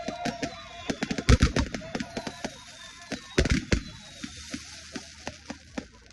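Fireworks going off in quick, irregular bangs and pops. The loudest clusters come about a second and a half in and again about three and a half seconds in, and the bangs thin out and fade near the end.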